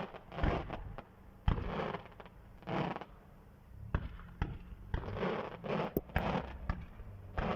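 Fireworks going off in an irregular string of sharp bangs, several followed by a crackling rumble.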